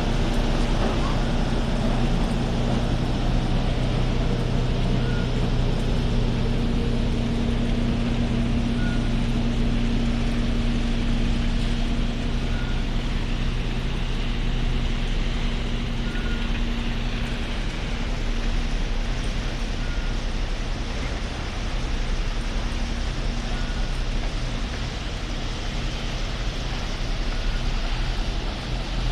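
Diesel engine of a railway track construction machine running steadily with a constant low hum, while a short warning beep sounds about every four seconds.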